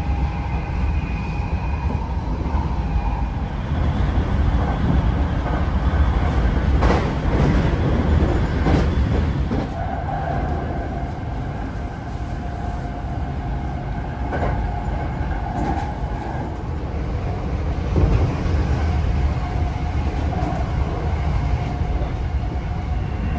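Hankyu electric commuter train running at speed, heard from inside the passenger car: a steady low rumble of wheels on rails with a few sharp clacks over rail joints midway.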